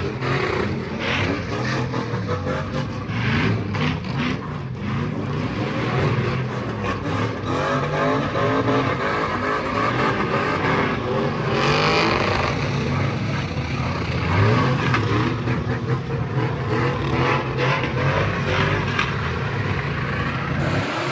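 Car engine revving hard, its pitch climbing and dropping over and over above a steady low engine drone, as a car is driven at a sideshow.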